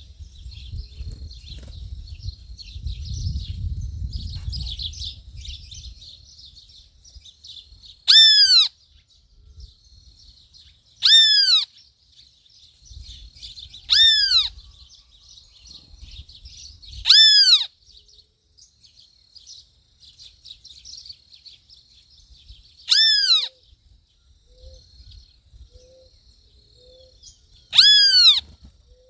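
A bird gives a loud, short, downward-slurred call six times, about every three seconds, over faint high chirping. A low rumble fills the first few seconds.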